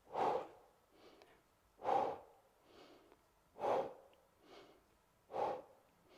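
A woman's forceful, rhythmic exhalations during an exercise, one strong breath out about every 1.7 seconds, four in all, each matched to a repetition, with softer inhalations between them.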